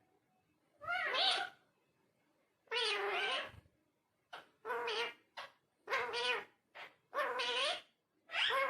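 Indian ringneck parrot giving a string of short, wavering calls, about seven of them, roughly a second apart.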